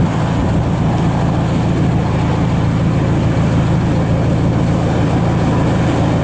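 Steady low rumble of a car heard from inside its cabin, engine and road noise running evenly.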